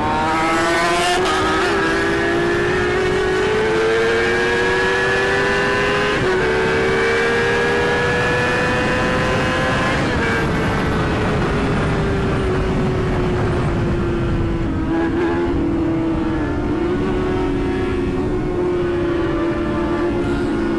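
Yamaha R6's inline-four engine pulling hard with a rising pitch, with one brief dip about six seconds in like a gear change. About ten seconds in it eases off, the pitch falls and it settles to a steady cruise. Steady wind rush throughout.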